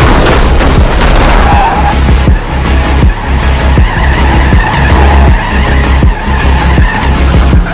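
Loud action-film sound mix: vehicle engine and tyre noise over a pulsing bass score, with regular sharp hits.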